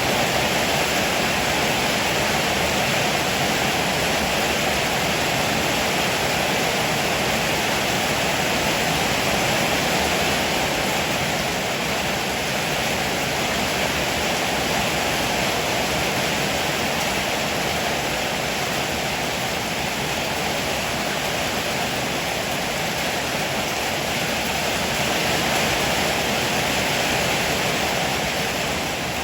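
Heavy rain pouring steadily, an unbroken even hiss with no thunderclaps.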